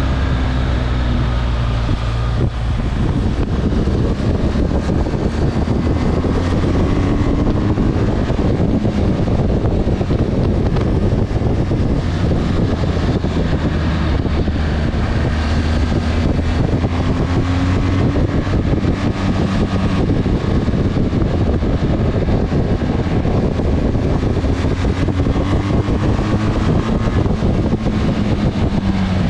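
Motorcycle engine running while riding, its pitch slowly rising and falling with the throttle, under a steady rushing noise.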